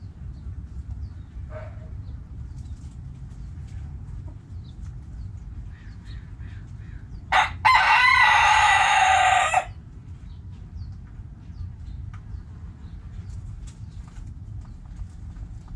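A rooster crows once, about halfway through: a short first note, then a loud held crow of about two seconds. Faint, scattered hen clucks sound around it over a steady low rumble.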